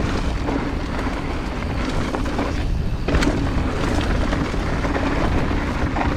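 Mountain bike descending a loose dirt trail at speed: a constant low rumble of wind on the action camera's microphone and tyres over the dirt, with the bike rattling and knocking over bumps.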